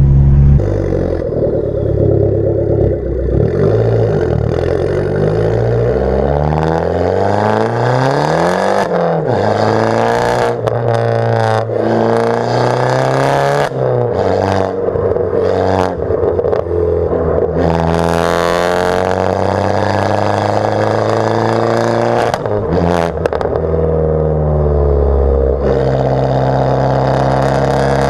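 Abarth 500's turbocharged four-cylinder engine with a decat and straight-piped Bombardone exhaust, pulling through the gears. The pitch climbs for several seconds, drops sharply at a gear change about nine seconds in, then rises and falls again, with sharp pops and crackles in between.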